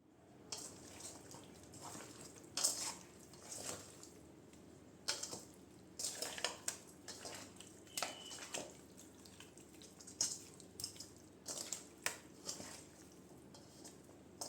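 Water splashing and dripping in a sink or bowl, in irregular short bursts.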